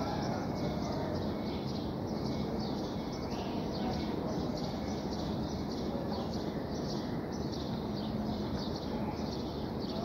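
Birds chirping, many short high-pitched chirps a few times a second, over a steady low background noise.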